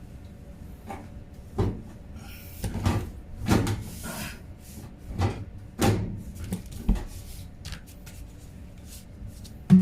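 Parts of a Whirlpool HE washing machine being fitted back into place by hand after cleaning the filter: a series of irregular knocks and clunks, about half a dozen over several seconds.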